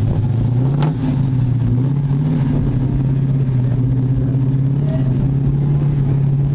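A car engine running steadily at low revs, its pitch rising slightly about a second in and then holding even.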